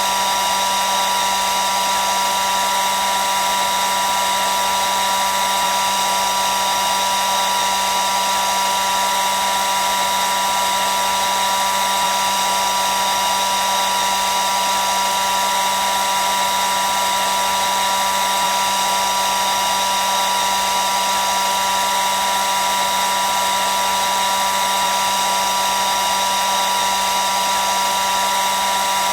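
Hair dryer running continuously at a steady speed: an even rush of airflow with a steady high whine from the fan motor.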